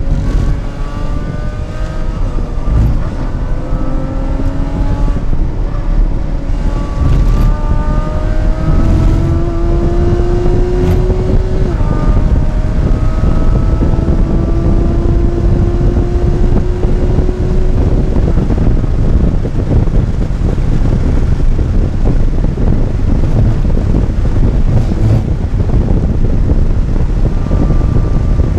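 Porsche 981 Cayman's flat-six engine heard from inside the cabin under hard acceleration, its pitch climbing with the revs, dropping at an upshift about twelve seconds in, then climbing again. Heavy wind and road rumble runs underneath and takes over in the later part as the engine tone fades.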